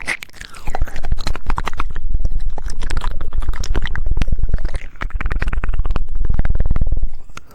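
Rapid, wet tongue clicks and mouth sounds very close to a sensitive microphone, a fast run of clicks like a woodpecker pecking, with a short break about five seconds in.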